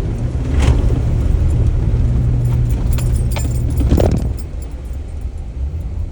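Off-road Jeep engine pulling steadily under load as the vehicle climbs over a trail obstacle, louder for the first four seconds and then easing off. A few sharp clunks and knocks come through, about a second in and again near four seconds.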